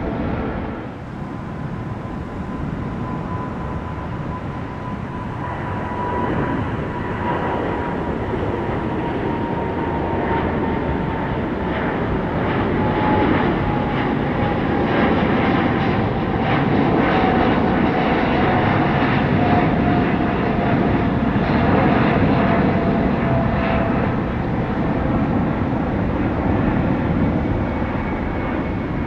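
Jet airliner's engines on departure climb-out: a steady rumble that grows louder to a peak about two-thirds of the way through, with a thin whine sliding slowly down in pitch.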